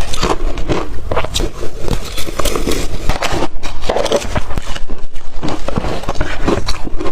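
Close-miked biting and chewing of blender-crushed ice: loud, rapid, irregular crunches.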